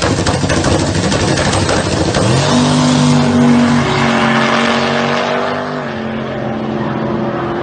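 Big-turbo LS V8 in a Dodge Dakota running hard. About two seconds in, its pitch rises quickly and holds steady for about three seconds, then drops slightly.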